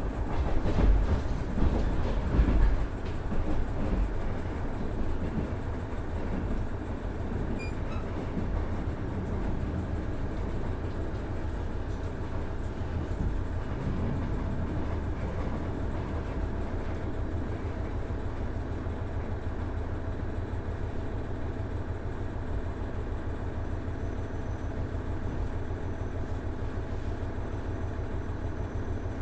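Running sound inside a KiHa 110 series diesel railcar: its Cummins DMF14HZA diesel engine drones steadily under the rumble of wheels on rail. The rumble is heavier and peakier for the first few seconds, then settles to an even level.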